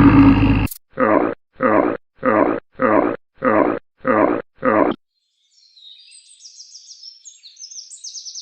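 The end of a lion's full roar, followed by a series of seven short grunts about half a second apart. After a pause, faint high-pitched chirping begins about halfway through.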